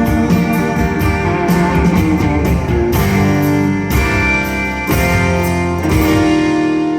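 Live band playing guitar-led rock with drums. About six seconds in, the drum hits stop and a final chord is held ringing.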